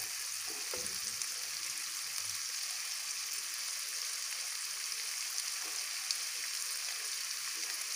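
Diced chicken sizzling steadily in hot oil in a non-stick wok: a constant fine, crackling hiss as the pieces brown.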